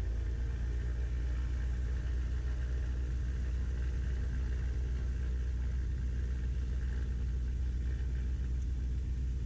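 Twin piston engines of a Beechcraft Baron B55 running at low power while taxiing, heard inside the cockpit as a steady low drone.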